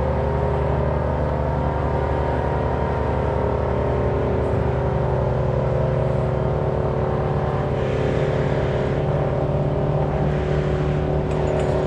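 An engine running steadily at one constant speed, with no revving or change through the stretch.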